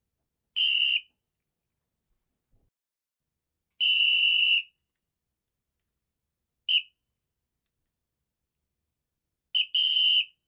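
A high-pitched, whistle-like squeak sounding five times in short bursts at one steady pitch, with dead silence between: a longer burst in the middle, two very short blips and a longer burst near the end.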